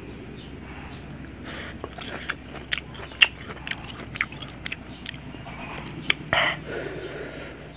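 Close-up chewing of chili-salted ginger slices: irregular crunching and sharp clicking bites, the loudest crack about three seconds in, with a brief noisy rush near the end.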